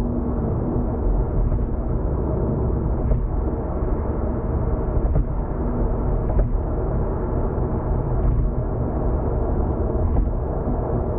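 Steady low rumble of tyre and engine noise inside a car cruising on an expressway, with faint knocks every second or two.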